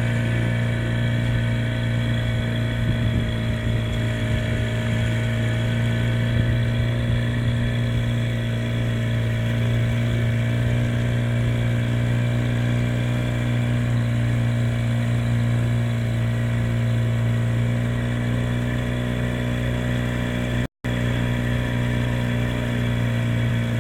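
Steady, unchanging engine drone with a strong low hum and many steady overtones. The sound cuts out for a moment near the end.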